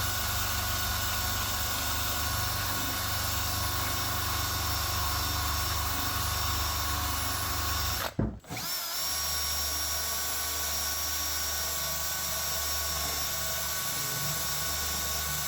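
Power tool running a wire wheel, scrubbing rust off an antique iron ice claw: a steady motor whine with one brief break a little past halfway, after which it goes on at a slightly different pitch.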